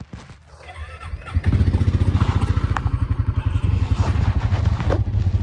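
ATV engine starts pulling loudly about a second and a half in and keeps running with a steady, rapid low pulsing as the machine moves off.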